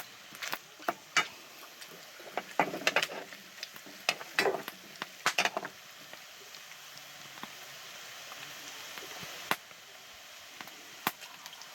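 Bacon and calabresa sausage sizzling in hot fat in a pot, with a utensil scraping and knocking against it in quick clicks through the first half, then steady sizzling with a couple of single clicks near the end.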